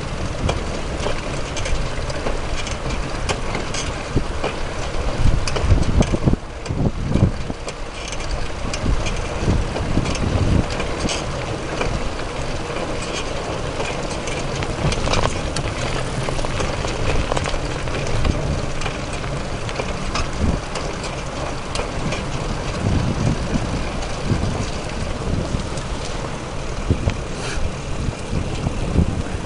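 Wind noise on the microphone of a camera carried on a moving bicycle, with tyre and road noise and many small knocks and rattles. The wind swells in low gusts now and then.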